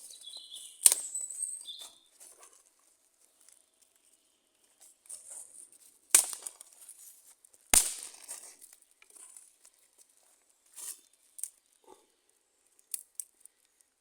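Wood fire crackling, with sharp loud pops about a second in, around six seconds and near eight seconds, and quieter scattered snaps between.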